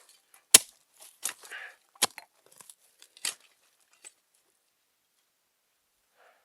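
Four sharp knocks with short crunching scrapes between them in the first four seconds, then quiet.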